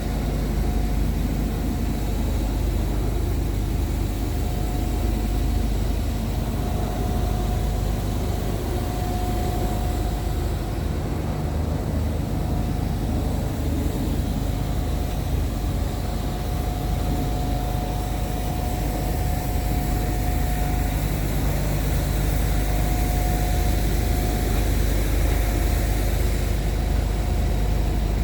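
Scania P truck's diesel engine idling steadily, with a thin whine that comes and goes.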